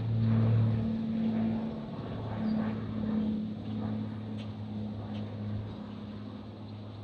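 An aircraft passing overhead: a steady low engine hum with a held tone that is loudest about half a second in, then fades away as it recedes.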